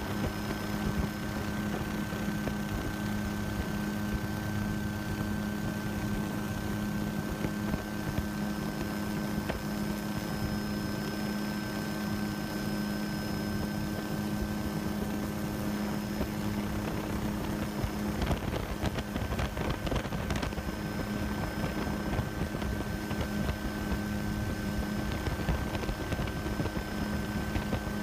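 Steady mechanical hum of a running motor with a rush of wind, holding a few fixed whining tones. About two-thirds of the way through, the low hum drops out briefly and a few seconds of crackling come in.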